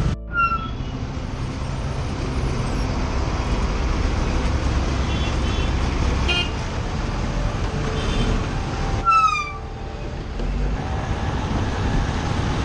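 Road traffic noise with a steady low rumble of engines and wind, broken by short vehicle horn toots about half a second in and again about nine seconds in, each sliding slightly down in pitch.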